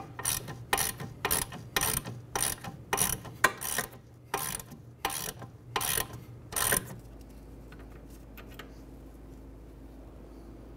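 Hand ratchet clicking in steady back-and-forth strokes, about two a second, as it backs out a 14 mm rear hub mounting bolt. The clicking stops about seven seconds in, leaving a faint low hum.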